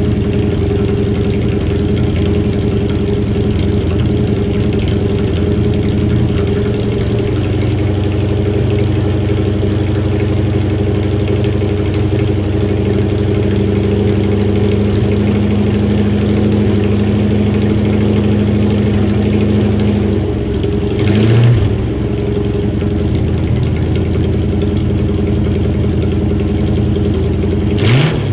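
Car engine idling after a cold start; the idle note changes about seven seconds in. There are two short throttle blips, one about twenty-one seconds in and one near the end.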